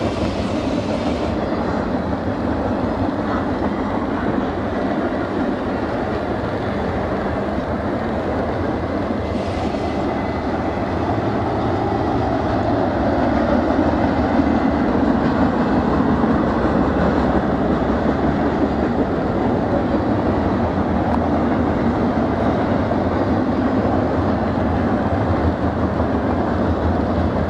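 Double-stack intermodal freight train's well cars rolling past, a steady noise of steel wheels on rail that swells a little about halfway through.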